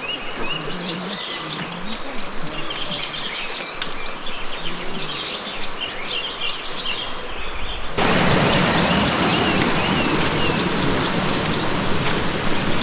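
Forest birds chirping, many short repeated notes from several small birds. About eight seconds in, a steady loud hiss suddenly comes in underneath, and the chirping carries on over it.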